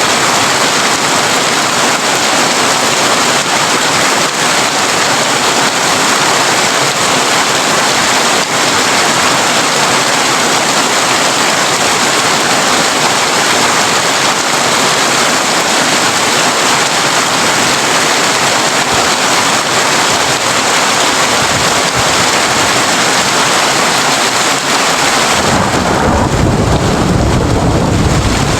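Heavy rain falling on a tin roof, a dense, steady patter. About 25 seconds in, a low rumble of thunder comes up under it as the higher hiss of the rain dims.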